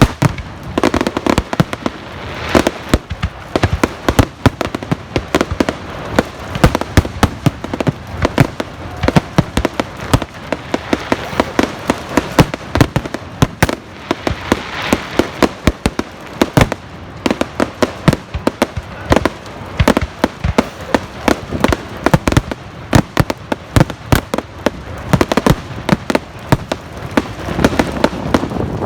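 Fireworks going off: a dense, continuous run of sharp bangs and crackles, several a second.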